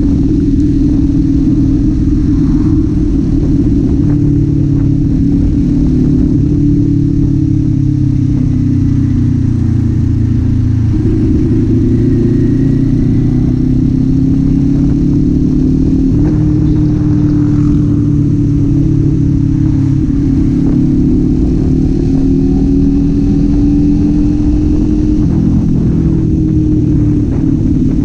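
Kawasaki Z400's parallel-twin engine and exhaust running under way, the engine note holding fairly steady and stepping up or down in pitch several times as the revs change.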